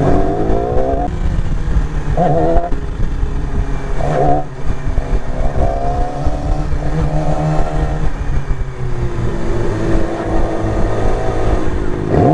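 A motorcycle engine running while riding in traffic, its pitch rising and falling several times as the throttle opens and closes.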